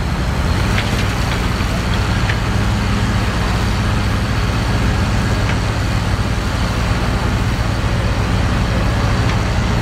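A tractor pull tractor's engine runs steadily as a loud, even drone, with no change in pitch.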